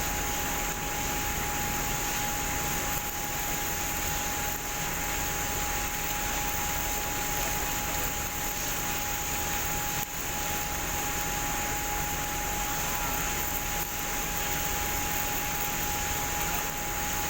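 Shotcrete spraying equipment running: a steady rushing hiss of air-driven spraying with a constant whining tone, briefly dipping about ten seconds in.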